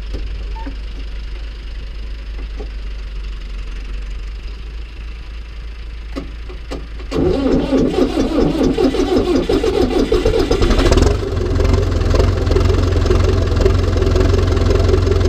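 Massey Ferguson 590T tractor's turbocharged four-cylinder diesel with a straight pipe starting up. After a low background rumble and a couple of clicks, the engine catches about seven seconds in and runs loud and uneven for a few seconds, then settles into steady running.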